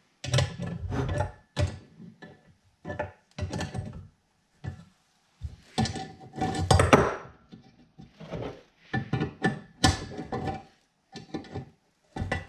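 Irregular knocks, clunks and scrapes of drill press parts being handled and fitted together during assembly, some with a brief metallic ring.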